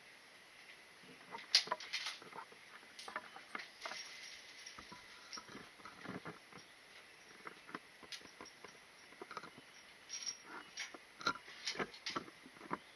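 Irregular light clicks, taps and rustles of close-up handling, the sharpest about one and a half seconds in, with no shots.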